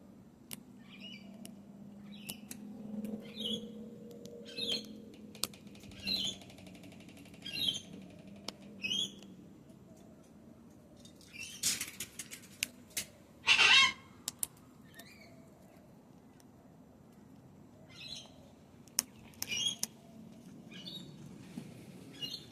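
A cockatoo crunching food in its beak: sharp cracks and clicks, with short high bird calls throughout. Near the middle there is a louder harsh noisy burst.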